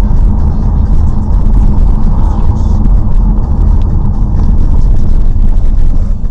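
Loud, steady low rumble of a car on the move: engine and road noise.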